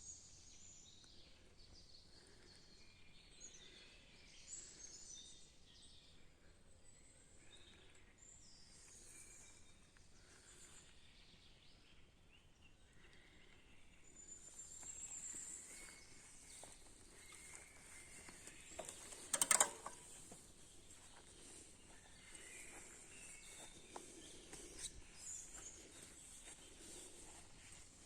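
Quiet forest ambience with faint, scattered bird chirps, and one sharp click about two-thirds of the way through.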